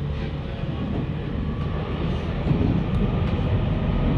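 Electric commuter train running along the track: a steady low rumble with a few faint steady tones above it.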